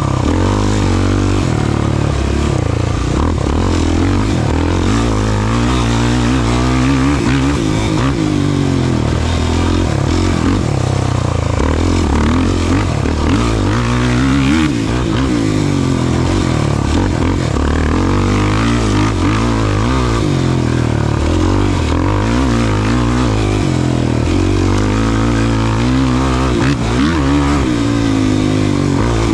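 Off-road race vehicle engine running hard, its pitch rising and falling over and over as the throttle is worked and gears change, with rough-terrain noise underneath.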